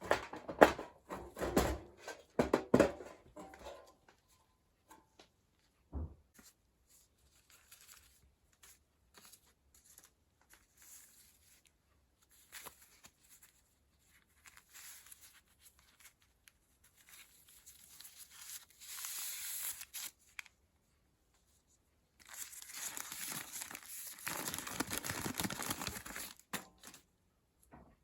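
Crinkling and tearing sounds of handled material, in two longer spells, after a few sharp knocks at the start.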